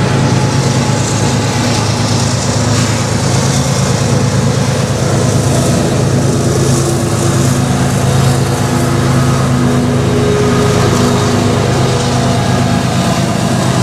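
Freight train going by close at hand, its diesel locomotive engine running with a steady low hum over the rumble of the train.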